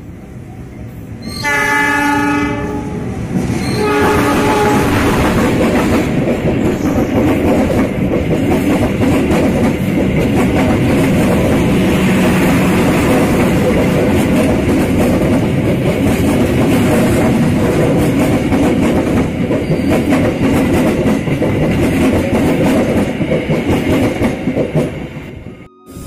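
A train horn sounds two blasts in the first few seconds. Then the loud, steady rumble and clatter of a train running on the rails continues until it cuts off suddenly near the end.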